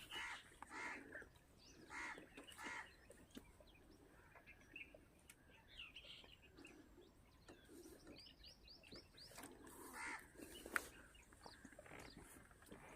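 Faint wild birds calling on and off: scattered short chirps and calls, with a quick run of short falling chirps a little past the middle. A single sharp click near the end.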